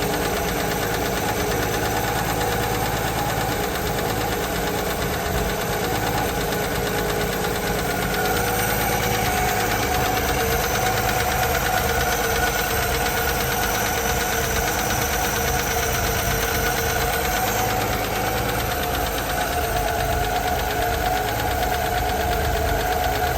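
Holden FX 48-215's inline-six 'grey motor' running steadily, a little louder from about eight seconds in.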